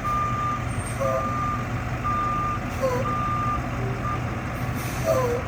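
Reversing alarm on a 2010 International 4300 DuraStar dump truck beeping about once a second, one steady high tone per beep, over the steady low hum of its MaxxForce 7 diesel engine.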